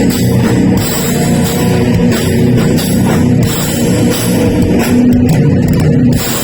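Heavy metal band playing loud live: electric guitar over a drum kit.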